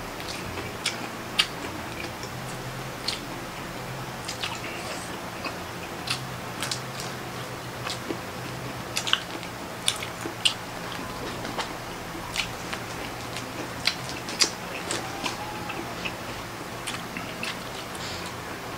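Close-up eating sounds from people eating shrimp and octopus with their hands: chewing and wet lip-smacking, with scattered sharp clicks and smacks at an irregular pace.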